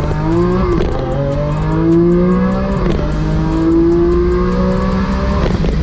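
Lamborghini Aventador's V12 accelerating hard at full throttle from a launch-control start, heard from inside the cabin. The engine pitch rises steadily through each gear and drops sharply at three quick upshifts: about a second in, near the middle and near the end.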